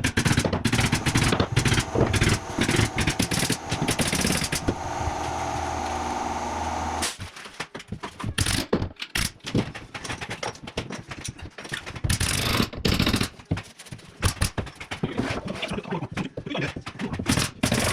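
Carpentry work: a run of rapid, sharp knocks and clatter, with a steady machine hum for a couple of seconds around the five-second mark that stops abruptly.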